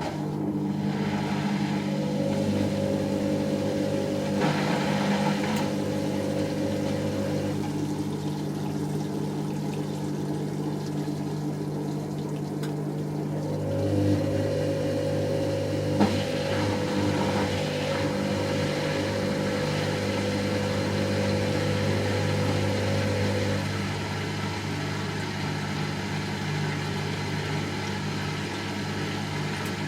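Hoover Nextra HNL71463D washing machine spinning its drum in the fast final spin, a steady motor and drum hum. A higher whine comes in twice and drops out again, and there is one short knock about 16 seconds in.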